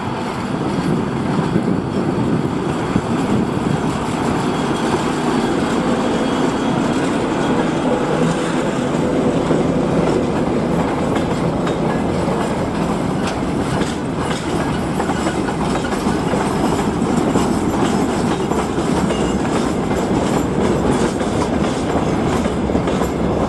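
ChME3 diesel-electric shunting locomotive pulling a freight train away from a station, passing close at the start, followed by the freight wagons rolling by with a steady loud rumble and the clickety-clack of wheels over rail joints.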